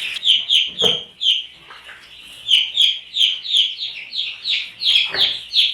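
Baby chicks peeping: a rapid string of high, falling peeps, about three a second, with a short lull about a second and a half in. A thump sounds about a second in and another near the end.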